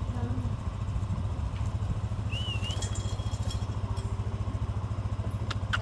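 Steady low rumble of an idling engine with a fast regular pulse, and one short wavering chirp from a bird about halfway through.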